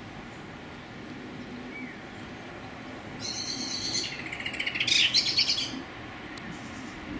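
A songbird singing a short burst of rapid high chirps and trills, starting about three seconds in and lasting about two and a half seconds, over steady faint background noise.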